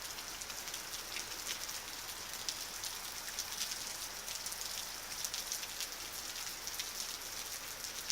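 Heavy hurricane rain falling steadily, a continuous hiss dotted with many small ticks of drops striking close by.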